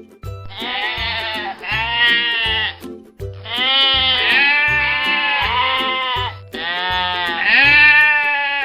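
A farm animal bleating in long, wavering calls, three drawn-out bursts one after another, over background music with a steady beat.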